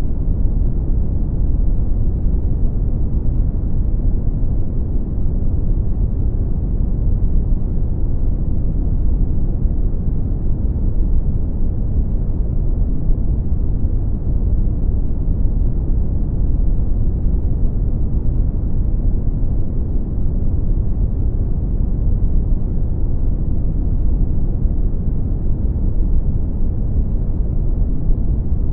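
Brown noise: a steady, deep rumbling hiss, strongest in the low bass and falling off toward the treble, with no changes.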